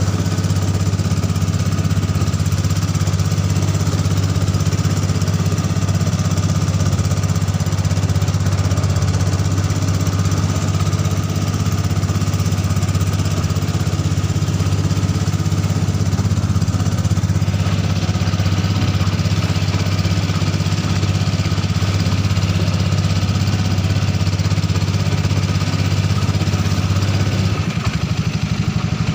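Ketinting longtail boat engine, a Honda 6.5 hp single-cylinder four-stroke, running steadily and loud while the boat is under way. Near the end its note shifts and drops a little.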